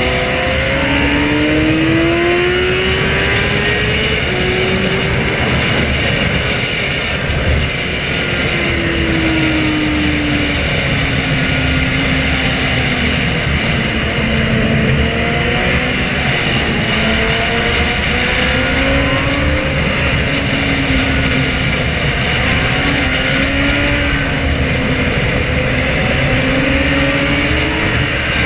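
Sportbike inline-four engine revving hard on the move, its pitch climbing through the revs, dropping back around a third of the way in, then climbing again in several pulls, over a loud, steady rushing noise.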